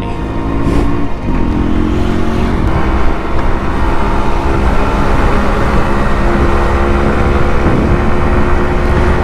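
Motorcycle engine running at riding speed, a steady engine note that shifts slightly in pitch over a heavy low rumble.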